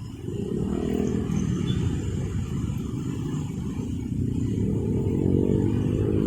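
Engines of vehicles at a railway level crossing: a low rumble that swells about a second in, with the engine pitch climbing toward the end as they pull away.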